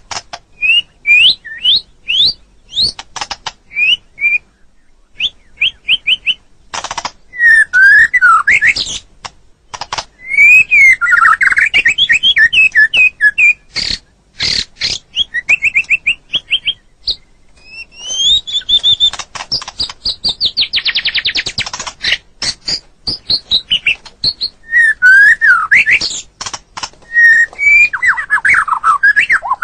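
White-rumped shama (murai batu) singing a continuous, varied song of rising whistled notes, fast trills and sharp clicks, with short pauses between phrases.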